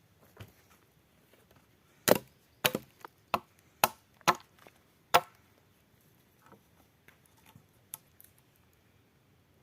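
Wood being chopped: a run of about seven sharp chopping strikes over three seconds, starting about two seconds in, then one lighter knock near the end.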